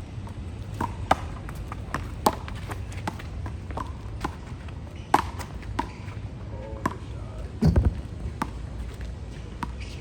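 Handball rally: the rubber handball slapping sharply off the wall, the ground and players' palms, a dozen or so irregular smacks, with a heavier low thump about three-quarters through, over a steady low rumble of wind or traffic.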